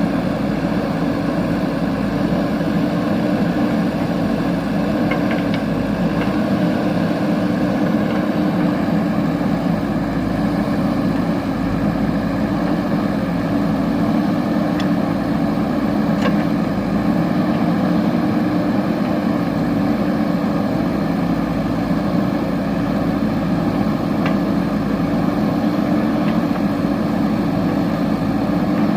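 Heavy diesel machinery engine running steadily, with a few faint clicks.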